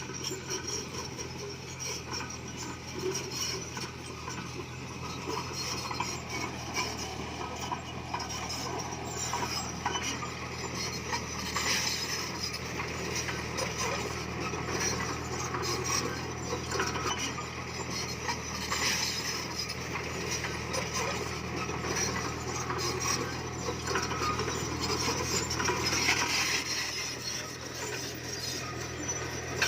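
Komatsu crawler bulldozer working: a steady low diesel engine drone with the clanking and rattling of steel tracks and stone being pushed.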